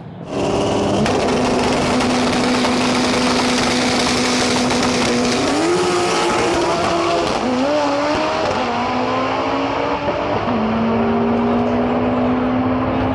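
Drag race car's engine held at high, steady revs. About halfway in the pitch steps up and wavers for a few seconds, then drops back and holds steady again.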